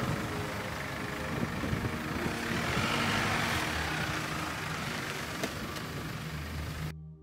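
Jeep Wrangler JK engine running low and steady as the open-topped two-door drives slowly past, with a broad rushing hiss over it. The sound cuts off abruptly near the end.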